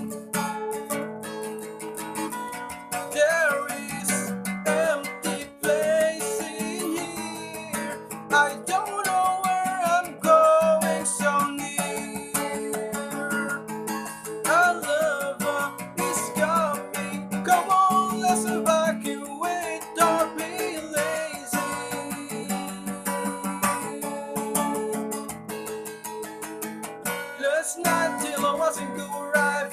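Rock song with strummed acoustic guitar chords and a melody line gliding over them.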